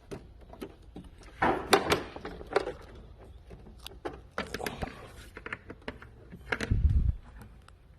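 Irregular metallic clicks and knocks of hand tools and bolts being worked while the strut brace is unbolted, with louder clusters about a second and a half in and near the end.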